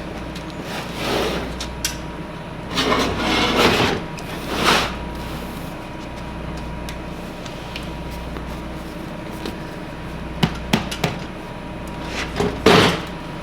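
Hands working a seat recover kit onto a truck bench seat: the cover material swishes and rustles as it is handled, then a few sharp clicks and knocks near the end, over a steady background hum.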